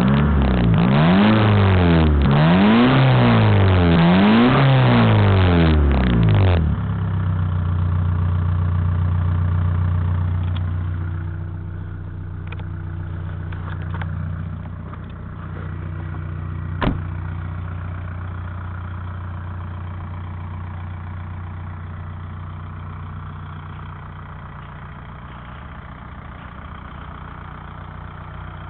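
Volkswagen TDI turbodiesel engine revved up and down several times, then settling to a steady idle. A single sharp click comes partway through the idle.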